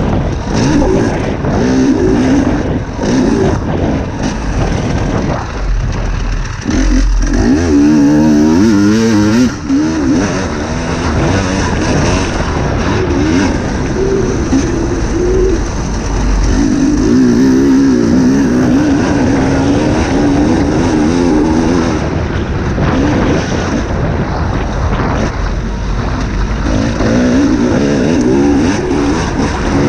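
Motocross bike engine being ridden hard, its pitch climbing and dropping again and again as the throttle is opened and closed over the track.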